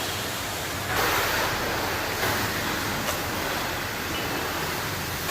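Car's electric radiator cooling fan running, a steady rushing whoosh that grows a little louder about a second in. The engine is overheating even with the fan running, from a thermostat valve stuck shut.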